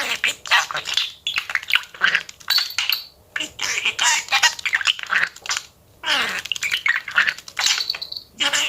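Budgerigar chattering and warbling: quick runs of chirps, clicks and rising and falling whistles, broken by a few short pauses.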